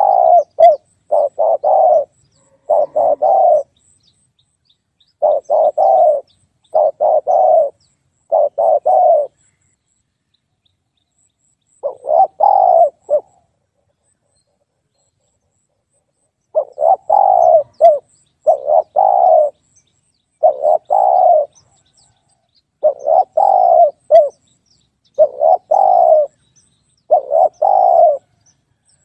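Spotted dove cooing: short phrases of a few low coos each, repeated every second or two, with pauses of a few seconds between runs.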